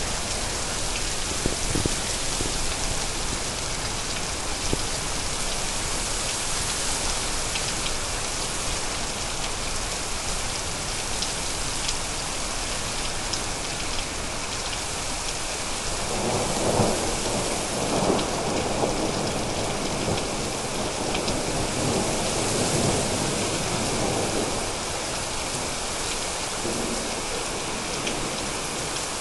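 Steady heavy rain falling, with a roll of thunder rumbling from about halfway through for several seconds before fading back into the rain.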